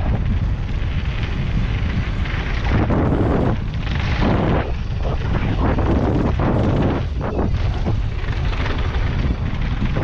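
Wind rushing over the microphone at riding speed, mixed with the rumble of a Pivot Firebird 29 mountain bike's tyres rolling down a rough dirt trail.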